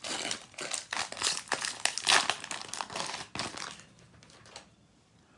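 Wrapper of a Panini Prizm basketball card pack crinkling as it is torn open and pulled apart, in quick crackling bursts that stop about four seconds in.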